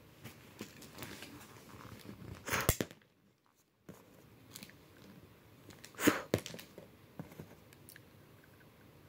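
Close-up chewing and crunching of Smarties candy in a few short bursts, the loudest about six seconds in, with a brief drop to near silence about three seconds in.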